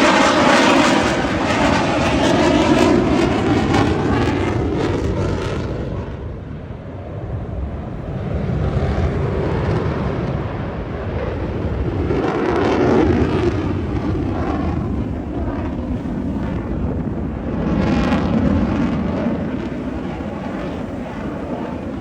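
Jet aircraft passing overhead: a loud engine roar that swells and fades several times as the jets come and go.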